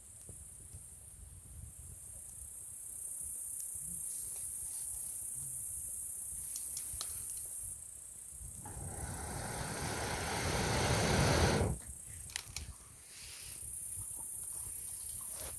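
Campfire with a few sharp pops, and a whoosh of air that swells for about three seconds a little past the middle and stops suddenly: breath blown through a fire-blowing pipe to fan the flames. A steady high-pitched hiss runs underneath.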